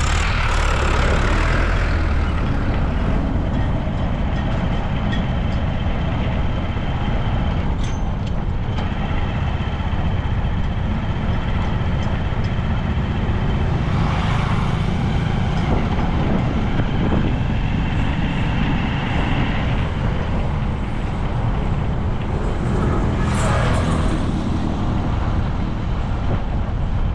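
Steady engine and road rumble of a moving vehicle, heard while riding in it, with a few brief swells in the noise.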